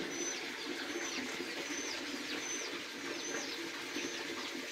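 Wild birds singing in a morning chorus: one bird repeats a high whistled note that holds and then slides down, about once a second, over fainter chirps and lower calls from other birds.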